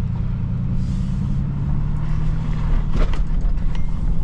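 Vehicle engine running with a steady low hum, with a short click about three seconds in.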